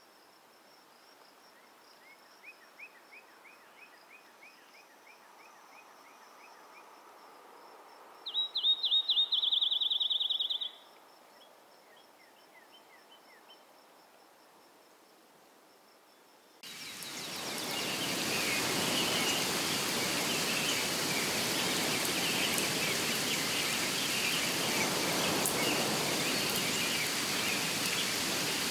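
Nature recording: a faint steady cricket-like pulse with a run of small bird chirps, then a loud, rapid bird trill lasting about two seconds. About halfway through it changes abruptly to steady rushing water, like a stream or waterfall, with birds chirping over it.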